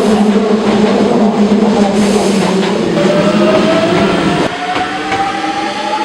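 Electric train running with a loud rumble and steady hum. From about halfway, the traction motors' whine rises slowly in pitch as the train gathers speed. The rumble drops off suddenly near the end while the rising whine carries on.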